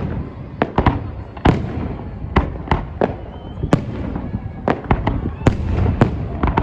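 Aerial fireworks salute: shells bursting in a rapid, irregular series of sharp bangs, a dozen or more, over a low rumble, with a thin whistle about three seconds in.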